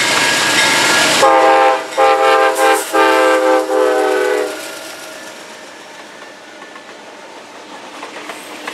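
Amtrak GE Genesis P42 diesel locomotive passing close at speed: a loud rush of passing noise, then its multi-note air horn sounding about three blasts, after which the horn stops and the rumble and wheel clatter of the passenger cars going by fades off.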